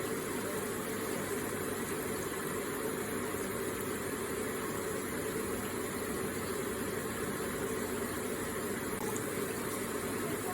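Electric water feature with water trickling and splashing steadily, an even watery rush.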